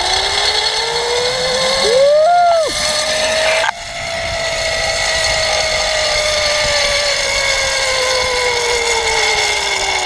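Zipline trolley pulleys whining along the steel cable: the pitch rises as the rider picks up speed, holds, then slowly falls as the rider slows. There is rushing noise throughout, and a short separate higher glide about two seconds in.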